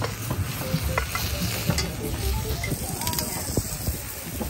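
Mushrooms sizzling in a hot cast-iron skillet over charcoal, pressed flat under a second cast-iron skillet to make mushroom steaks. A few short metal clinks come from tongs and the pans.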